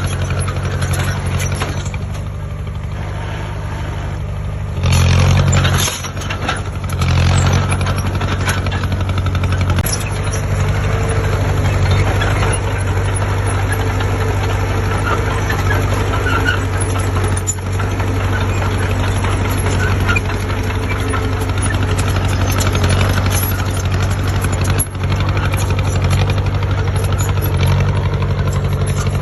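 Diesel engine of a heavy construction machine running steadily, with two brief louder surges about five and seven seconds in.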